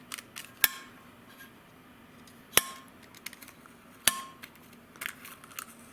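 Sharp metal clinks and taps: three loud strikes a second or two apart, then a few lighter ones near the end. They come from steel valve parts and tools being worked as valves are assembled into a cylinder head and their keepers fitted.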